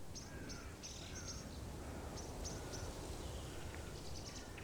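Faint autumn woodland ambience: short high chirps repeat in quick runs of three or four, with softer whistled notes of small birds or insects beneath.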